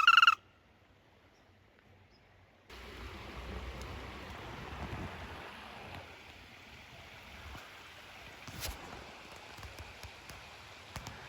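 A short, high, steady two-toned call cuts off about a third of a second in. Near silence follows, then about three seconds in a steady rushing outdoor noise starts abruptly, with one faint knock later on.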